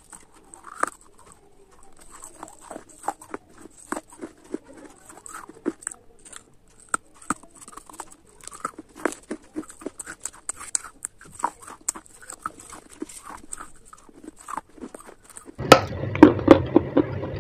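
Close, crisp crunching and chewing as pieces are bitten off a baked-clay gullak (piggy bank) and ground between the teeth, in irregular sharp cracks. About three-quarters of the way through it cuts abruptly to louder mouth sounds over a steady low hum.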